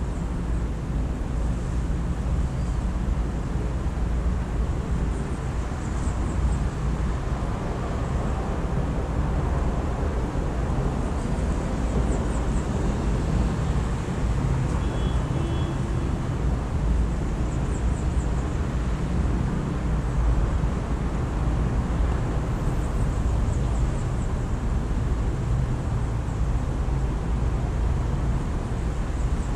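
A steady low outdoor rumble of the kind urban traffic makes, with faint, high, brief bird chirps every few seconds.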